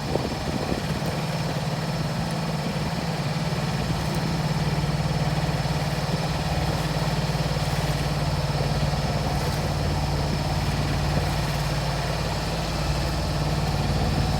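A small sailing yacht's auxiliary engine running at a steady speed, a little louder after the first few seconds.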